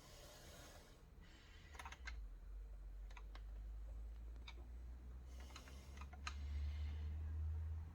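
Laptop parts being handled by hand: scattered small plastic clicks and rustling, with a low rumble building near the end.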